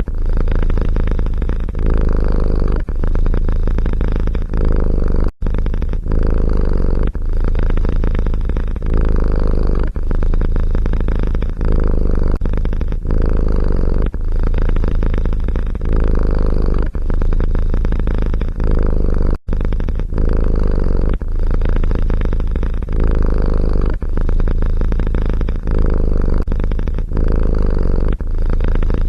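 Domestic cat purring close to the microphone: a low rumble that swells and eases with each breath, about once a second. It cuts out for an instant twice.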